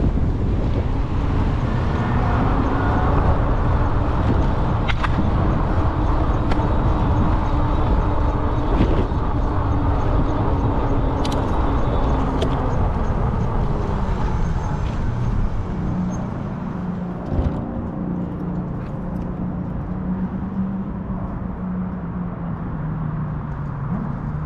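Road and wind noise from riding through city streets, with traffic around and a humming tone that wavers in pitch and then holds steady at a lower pitch. The noise drops somewhat about two-thirds of the way through.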